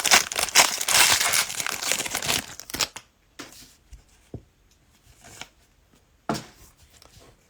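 Cellophane trading-card pack wrappers being torn open and crinkled for about three seconds, then a few scattered soft taps and rustles as the cards are handled.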